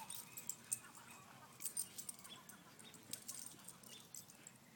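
Faint, scattered metallic clinks and ticks from a leash clip and collar tags jostling as two puppies play tug of war with the leash.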